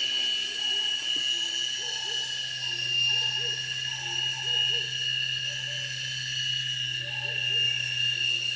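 Skyrover toy RC helicopter hovering: its small electric motors give a steady high whine over a low rotor hum.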